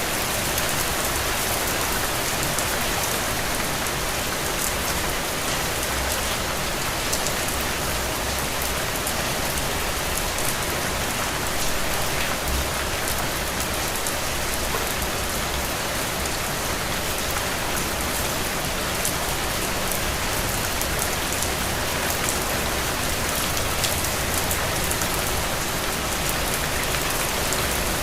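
Steady rain falling and pattering on surfaces, a dense even hiss with many fine drop ticks throughout.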